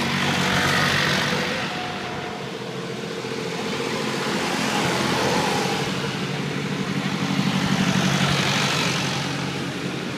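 Tractor engines running as tractors pass on the road one after another, the sound swelling and fading about three times as each goes by.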